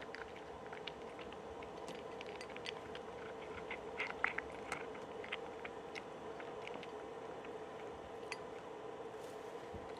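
Soft chewing and crinkling of a plastic food bag over a steady low hum inside a truck cab, with a short run of louder crinkles about four seconds in.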